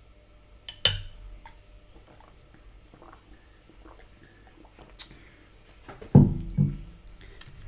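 Cutlery clinking against a plate while eating: a sharp click about a second in, faint scattered clicks, another click around five seconds. Near the end comes a short, low voice sound in two pulses.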